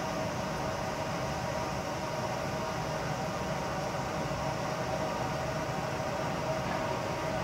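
Steady, distant rumble of a freight train hauled by an EF510 electric locomotive passing along the line, under a constant hiss.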